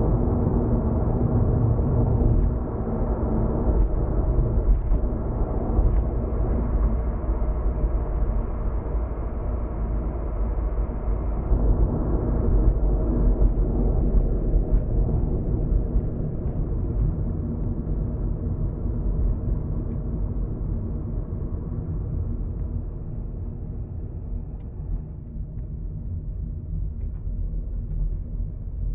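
Road and engine noise of a car heard from inside the cabin: a steady low rumble that slowly gets quieter as the car slows on entering a parking area.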